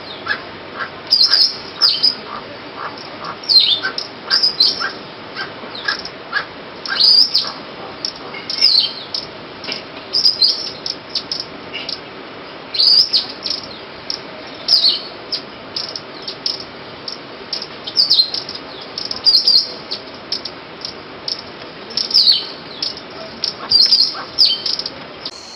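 Forest birds calling: loud, sharp calls that fall in pitch, repeated every second or so, with a run of quick, lower-pitched notes during roughly the first six seconds.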